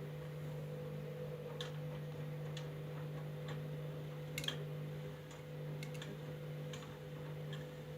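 Candy washing machine's motor humming steadily as the drum turns slowly, trying to balance an unbalanced load before the spin, with sharp clicks about once a second.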